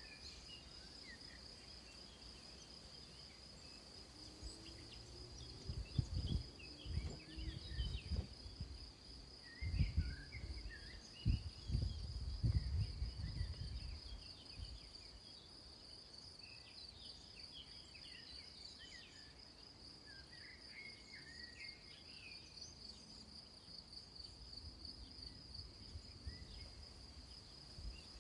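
A steady, high-pitched, pulsing insect chorus of crickets trilling, with scattered short bird chirps over it. Loud low rumbles and thumps come and go from about a quarter of the way in to about halfway.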